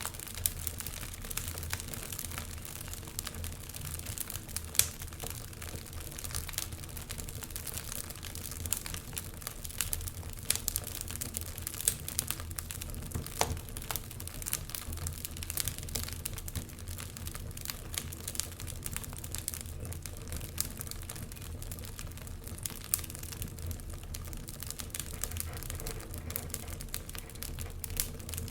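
Wood fire burning in a fireplace: a constant stream of small crackles and pops, with a few louder snaps, over a steady low rumble of flame.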